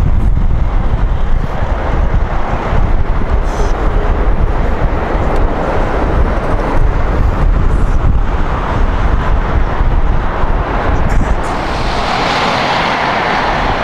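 Jet airliner engine noise close by, a loud rumble mixed with wind buffeting the microphone. About eleven and a half seconds in, the low rumble drops away and a steadier, higher rushing noise takes over.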